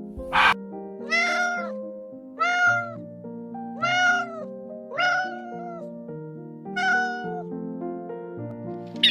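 A domestic cat meowing five times, each meow an arched call of about half a second, spaced roughly a second or more apart, over background music.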